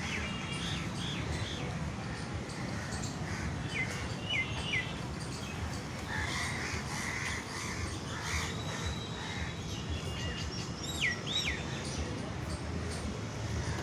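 A mix of birds calling: crows cawing among chirps and whistled, swooping calls from other birds, over a steady low background noise.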